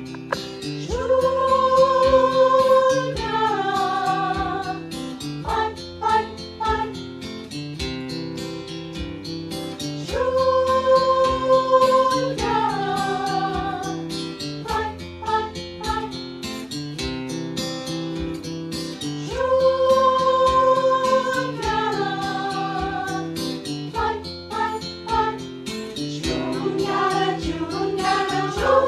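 Choir singing with instrumental accompaniment. A short phrase repeats about every nine seconds, each time opening on a long held note before moving into shorter notes.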